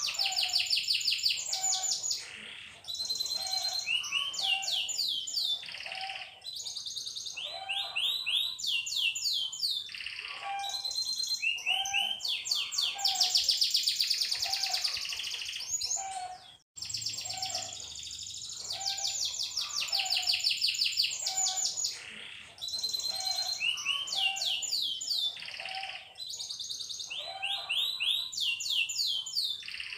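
Domestic canary singing a long, continuous song of fast trills and repeated rising and falling notes. The song breaks off for an instant a little past the middle and starts again.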